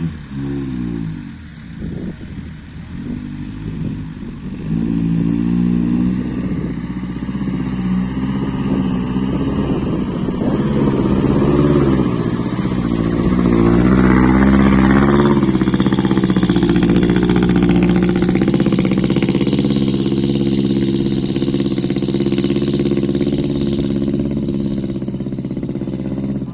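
Isuzu NPR115 truck's diesel engine working under load, its pitch rising and falling several times as it is revved, then holding a steady, higher note from a little past halfway.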